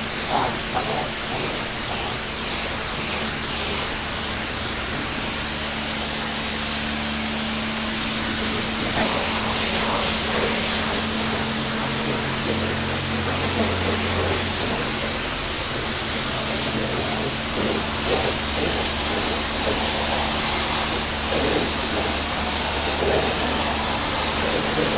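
Kärcher K2 electric pressure washer running, its water spray hissing steadily over the low hum of its motor.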